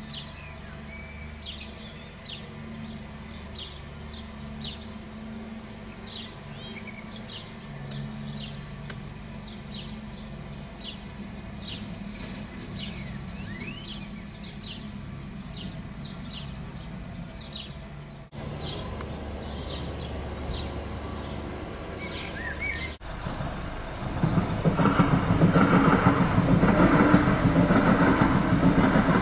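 A car engine idling, with small birds chirping repeatedly. About 24 seconds in, a passenger train passes over the level crossing with a loud, steady rush of wheel and rail noise.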